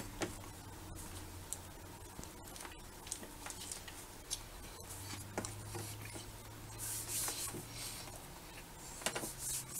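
Faint chewing and small handling noises as a man eats a bite of hamburger, with scattered soft clicks and rustles over a low steady hum.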